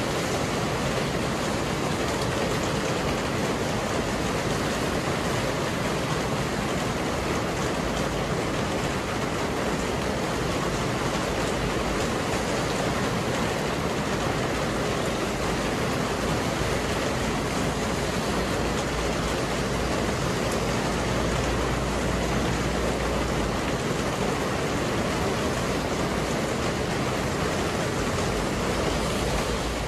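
Heavy rain pouring down onto a paved terrace and car park: a dense, even hiss that holds steady without a break.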